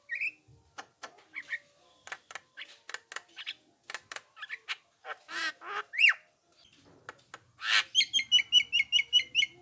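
Javan myna singing: a jumble of sharp clicks, harsh squawks and whistled notes, with a loud swooping whistle about six seconds in. It ends with a fast run of about nine evenly repeated chattering notes.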